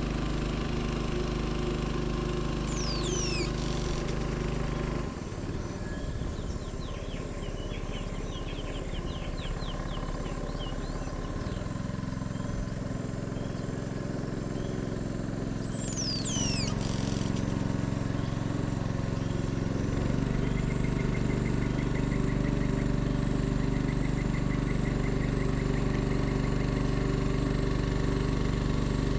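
Small boat motor running steadily, its pitch and speed shifting several times. High falling whistles sound about three seconds in and again past the middle.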